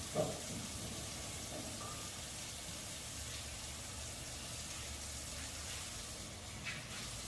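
Steady sizzling hiss of food frying in a pan, with a brief knock right at the start.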